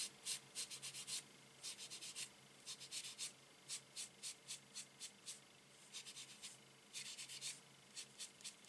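Ink sponge rubbing and dabbing on embossed cardstock in short, quick scratchy strokes, coming in runs of a few a second with brief pauses. Under it, a faint steady drone from a tumble dryer running in another room.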